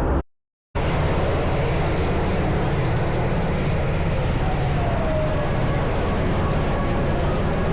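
Steady, dense jet aircraft engine noise with a strong low rumble, after a brief dead-silent gap from an edit near the start; a faint falling tone comes through about five seconds in.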